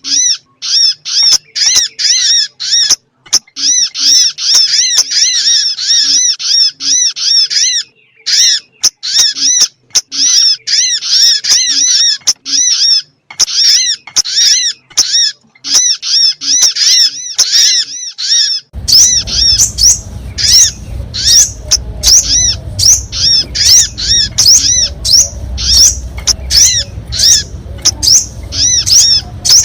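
Sogon bird calls played as a lure: loud, rapid runs of short, high chirping notes, each a quick arching chip, repeated many times a second with brief pauses between runs. About two-thirds of the way through, a low rumbling background noise comes in beneath the chirping.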